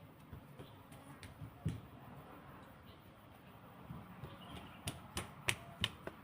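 Kitchen utensils and containers being handled: a dull knock about a second and a half in, then a quick run of five sharp clicks and taps near the end.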